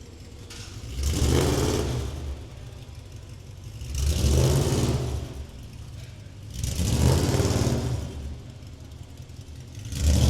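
BMW S65 4.0-litre V8 in a rally car being revved in four short bursts, about three seconds apart, dropping back to a lower run between them; the last burst comes near the end.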